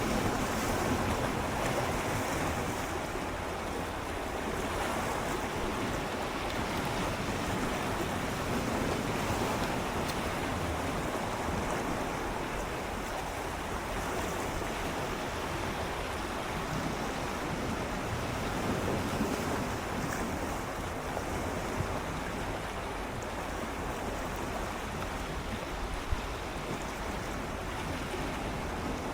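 Gentle sea waves lapping and swirling against shoreline rocks, swelling and easing every few seconds, with some wind on the microphone. A brief sharp tap about 26 seconds in.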